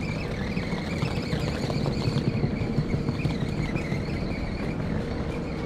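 Passenger train standing at a station platform, giving a steady low rumble with a steady high whine over it.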